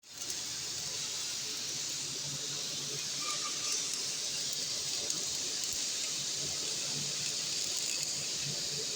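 Electric arc welding: the arc gives a steady hiss, with faint crackles here and there.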